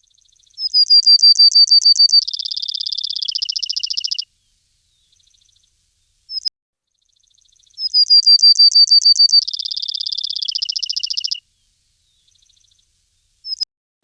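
A small songbird singing the same song twice, each lasting about four seconds: a run of high, sharp notes that drops into a lower, quicker trill. A single short chirp follows each song.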